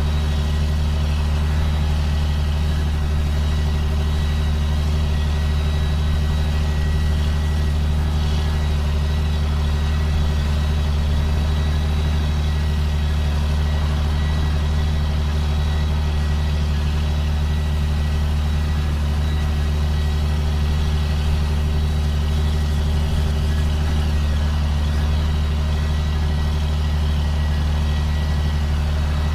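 2005 John Deere self-propelled sprayer running at a steady engine speed, with an even low drone and a faint, high, steady whine over it.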